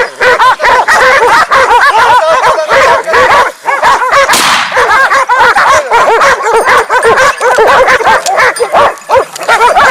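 A pack of hunting dogs barking and baying all at once in a dense, unbroken chorus of overlapping yelps and barks, the hounds working a freshly shot wild boar.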